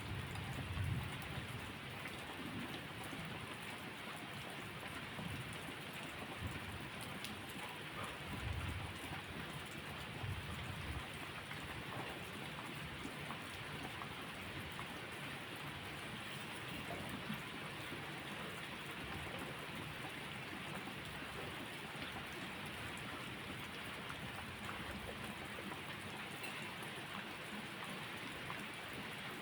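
Steady, even rainfall, with the tail of a low thunder rumble dying away in the first second and a few fainter low rumbles about a third of the way in.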